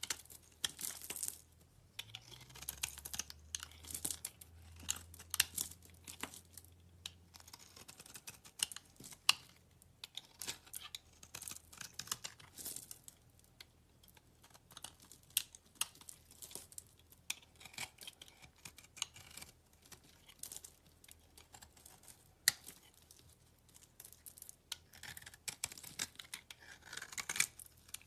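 Slime being squeezed, pressed and stretched by hand, giving irregular sharp crackles, clicks and small pops.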